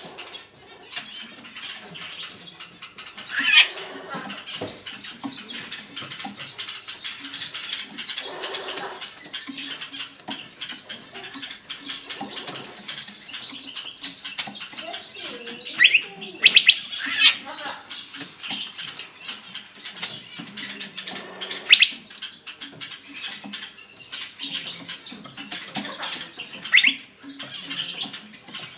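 Many cage birds chirping and chattering together in a dense, continuous chorus, with a few louder, sharper calls standing out now and then.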